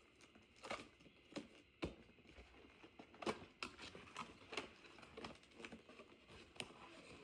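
Faint scattered clicks, scratches and taps of a small cardboard box being handled and opened, its sticker or tape being picked and peeled off.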